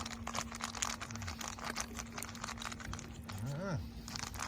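Log bonfire crackling with dense, irregular pops and snaps; a short voiced sound from a person comes in near the end.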